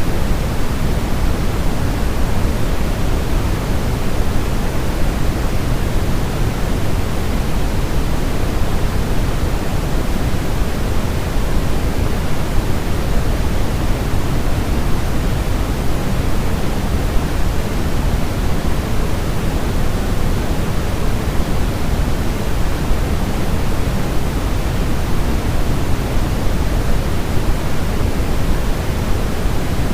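Steady synthetic noise of the kind played as white noise to lull a baby to sleep, unchanging throughout and weighted toward the low end like pink noise, giving a deep, even hiss.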